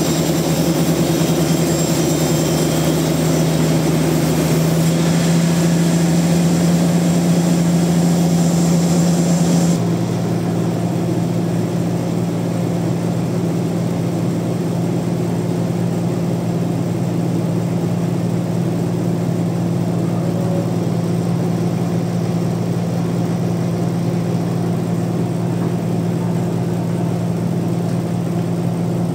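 Sawmill engine running at a steady drone. A higher hiss layered over it stops abruptly about ten seconds in.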